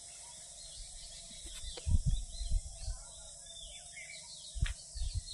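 Outdoor background with a steady hiss and scattered short bird chirps. Several low thumps come about two seconds in and again near the end.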